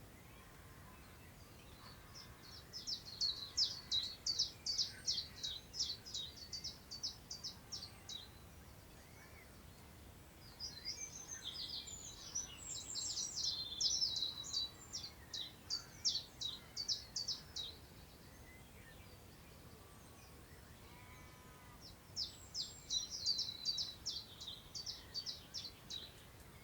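A songbird sings three long phrases of rapid, high repeated notes, each lasting several seconds, with pauses of a few seconds between them. Under it runs a faint steady hiss of wind through long grass.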